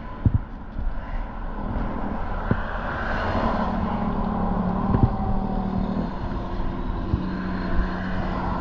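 Road traffic: a motor vehicle going by with a steady engine hum and tyre noise that swells about three seconds in, with a few scattered thumps.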